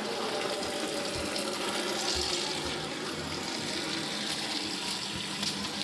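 Water running steadily onto potted plants as they are watered.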